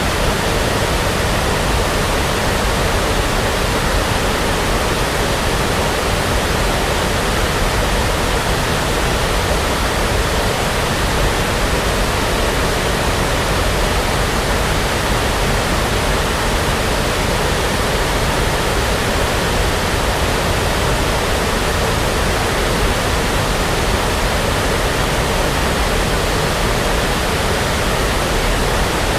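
Continuous brown noise for sleep: an even, unchanging rush with no rhythm or events.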